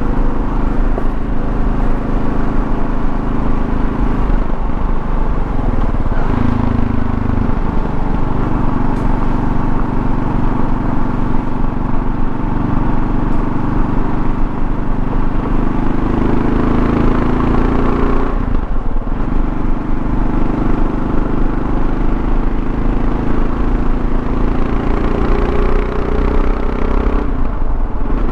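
2024 Kawasaki KLR650's single-cylinder engine running at road speed, with wind and road noise. The engine note climbs in stretches and drops briefly twice, about two-thirds of the way through and near the end.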